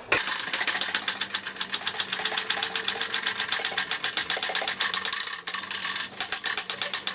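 Rapid, steady mechanical clicking, like a ratchet.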